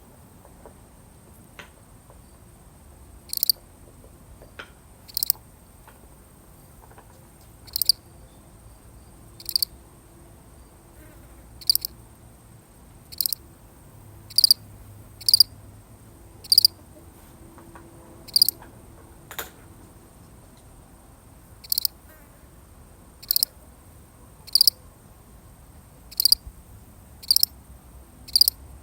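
A single cricket chirping: short chirps, the first a few seconds in, then one every second or two at uneven gaps.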